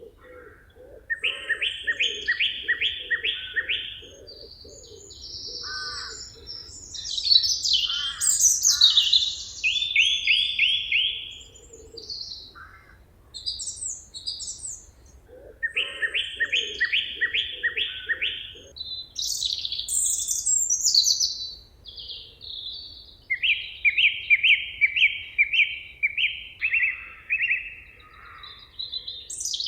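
Several songbirds singing in a forest chorus. One bird repeats a phrase of about eight to ten quick, evenly spaced notes three times, while other birds add short chirps and higher trills between.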